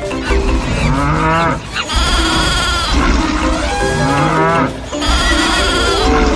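Stock animal sound effects led by cattle mooing, mixed with other animal calls; the same layered mix repeats about three seconds later.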